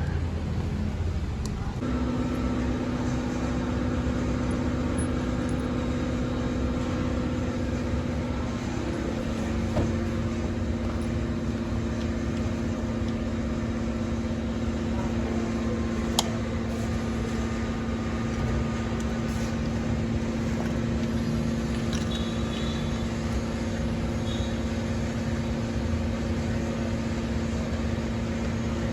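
Maruti Suzuki Ertiga's engine running steadily at idle with a rough low rumble. The engine is being checked for a cylinder 4 misfire (code P0304). A steady hum joins about two seconds in and dips slightly in pitch a few seconds later. There is a single click midway.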